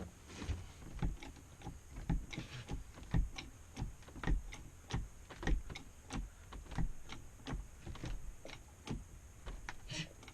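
Bottle jack being pumped by its handle to lift a floor: a steady run of short clicks and knocks, about two strokes a second.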